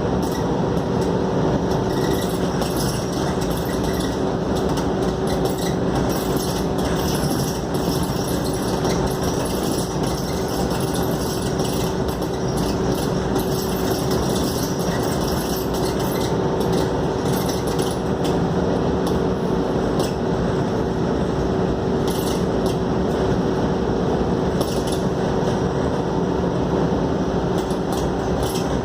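Interior of a Scania K280UD double-deck bus under way: steady engine drone and road noise, the engine holding an even note, with occasional light rattles and clinks from the bodywork.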